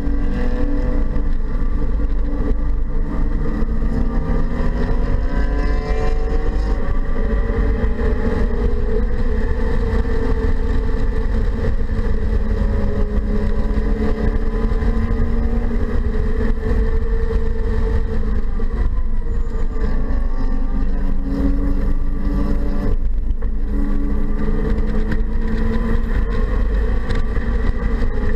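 2015 BMW 228i's turbocharged 2.0-litre four-cylinder engine heard from inside the cabin under hard track driving, revs climbing and falling again and again through manual gear changes, over a steady low rumble of road noise.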